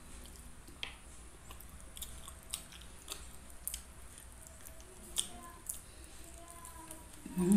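Close-up chewing and gnawing on fried chicken held in the hand: a run of small, irregular clicks and smacks from teeth and mouth. A louder, low-pitched sound comes just before the end.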